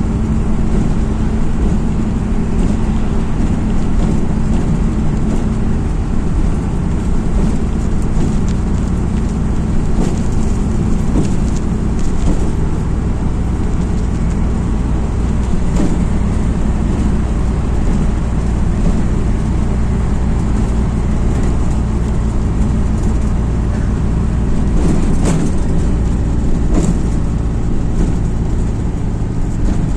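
Cabin of a MAZ-206 city bus under way: a steady diesel engine drone with road noise. A few short rattles or knocks come near the end.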